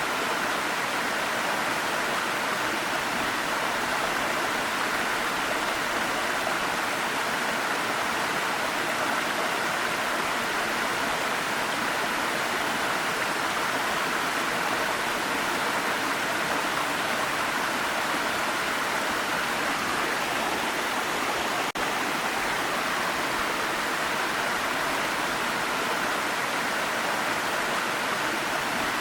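Waterfall: a steady, unbroken rush of falling water, with most of its energy in the middle range.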